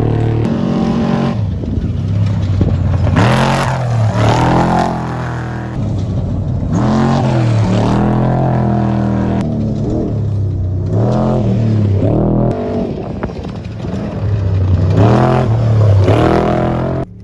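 Off-road Trophy Truck Spec race trucks at full throttle, engines revving and passing one after another, the engine note rising and falling again and again as they shift and work the throttle. Several loud swells come as trucks go by close.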